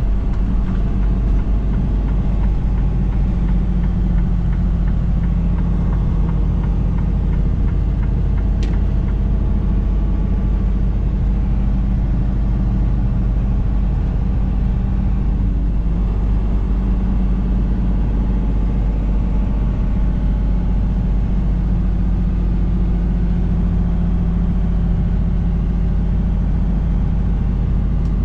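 Long-haul truck's diesel engine droning steadily at cruising speed, with road rumble.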